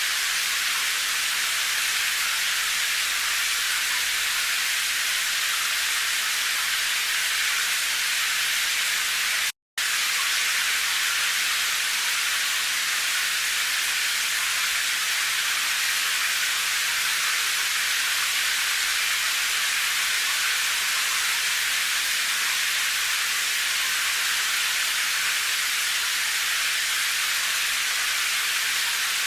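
Steady rain hiss, an even wash of high noise without distinct drops. It drops out to silence for a split second about ten seconds in, then resumes unchanged.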